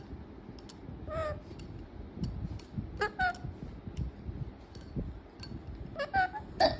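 Pet parrot giving short pitched calls in three bouts, about a second in, around three seconds in and near the end, the last the loudest, with light sharp clicks in between.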